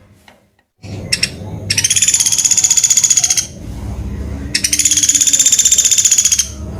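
Pelatuk beras woodpecker giving two long, rapid, high-pitched rattling trill calls, each lasting nearly two seconds, with a short gap between them.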